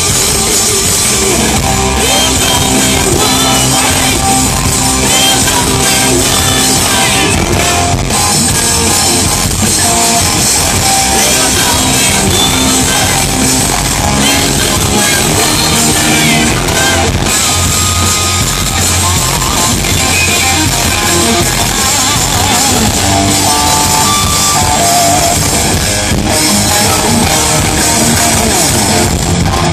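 Live rock band playing loudly during a sound check: electric guitar and drum kit with some singing.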